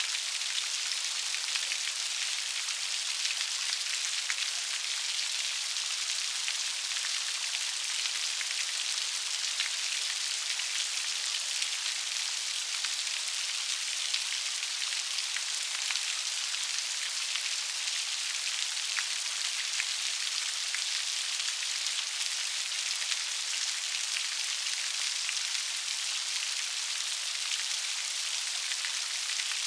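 Steady rain falling, a dense even hiss with many small raindrop ticks and no change in intensity.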